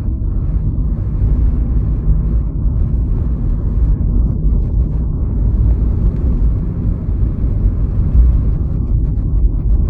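Steady low rumble of road and wind noise from a vehicle on the move, with no distinct engine note or sudden events.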